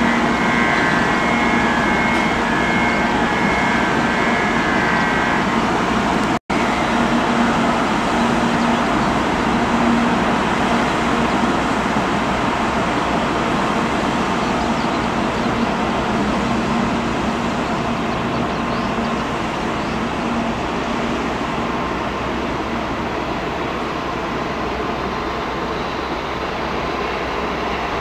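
N700A Shinkansen trainset pulling away from a station platform: a steady rolling rumble with a low electric hum. A row of short repeated electronic tones sounds over the first five seconds, and the sound cuts out for an instant at an edit about six seconds in.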